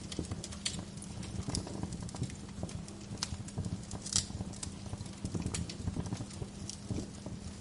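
Wood fire crackling, with irregular sharp pops and snaps, the loudest a little past the middle, over a steady low rumble and faint hum.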